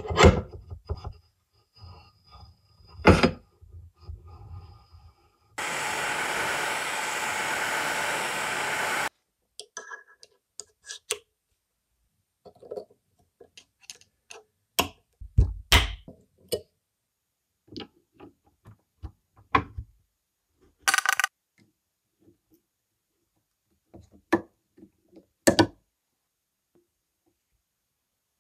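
Metal parts and tools being handled on a workbench: scattered knocks and clinks, with a steady hiss lasting about three and a half seconds a few seconds in.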